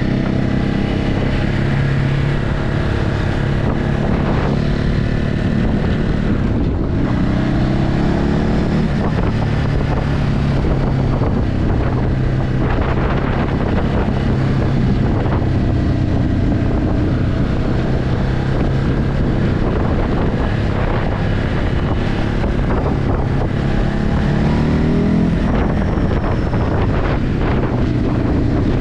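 Ducati Hypermotard 950's 937 cc L-twin engine through its stock exhaust, heard from the moving bike, its note holding steady and then climbing in pitch under acceleration a couple of times. Wind rushes over the microphone.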